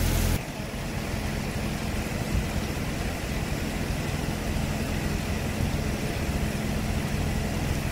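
Fire engine's motor idling with a steady low hum. A louder rushing noise cuts off abruptly right at the start.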